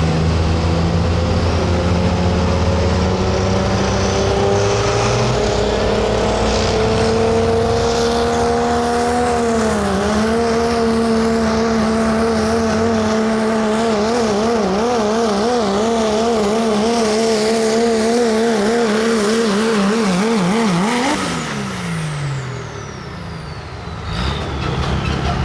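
Diesel pickup truck engine at full throttle pulling a sled, its pitch climbing steadily, then wobbling rapidly up and down, before the engine winds down about three-quarters of the way through. A high whistle slides down as the engine lets off.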